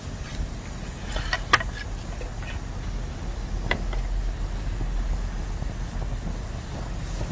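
Bamboo burning in a campfire: sharp crackles and pops cluster about a second in, the loudest near a second and a half, with a couple more around four seconds, over a low steady rumble.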